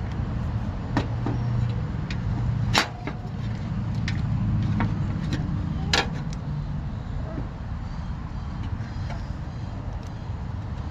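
Sharp metal clicks and taps of spade connectors being pushed onto the terminals of a replacement dual run capacitor, the loudest near three seconds and at six seconds, over a steady low hum.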